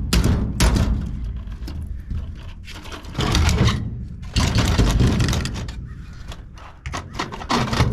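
Metal knocking, clanking and scraping as a golf cart charger's metal parts are worked apart by hand, with sharp knocks at first and longer stretches of grinding scrape in the middle.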